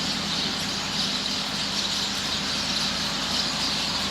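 Dense, steady chorus of a large flock of small birds chattering together as they settle into their roost tree for the night, with a low steady hum beneath.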